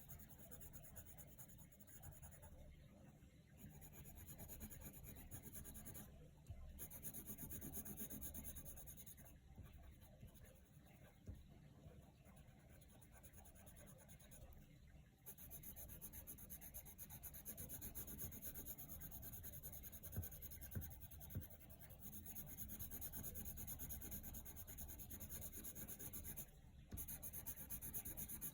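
Coloured pencil scratching on paper in continuous shading strokes. The strokes stop briefly a few times, then resume.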